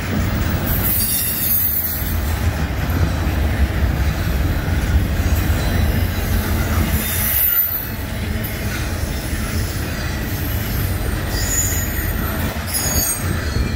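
Intermodal freight train cars rolling past: a steady low rumble of steel wheels on rail, with high wheel squeals about a second in, around seven seconds, and again near the end.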